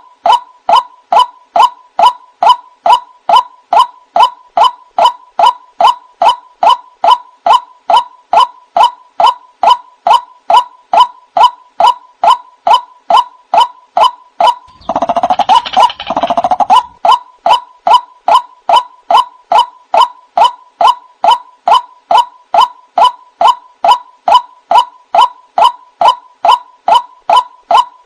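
White-breasted waterhen (ruak-ruak) calls from a bird-lure recording: a loud, evenly repeated note near 1 kHz, about five every two seconds. About halfway through, a louder, denser stretch of overlapping calls lasts roughly two seconds before the even rhythm resumes.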